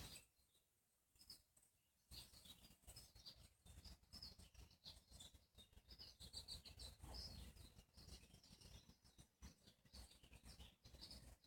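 Birds chirping faintly: many short, high chirps, starting about two seconds in, over a low rumbling background.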